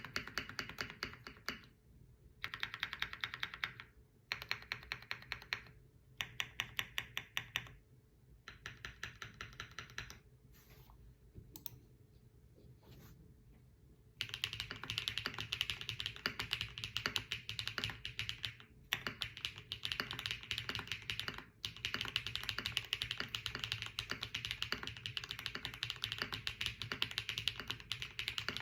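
Qwertykeys QK80 mechanical keyboard with Hyacinth V2U switches being typed on. At first it comes in short bursts of keystrokes with brief pauses between them, then a few quieter scattered taps, then fast continuous typing from about halfway through.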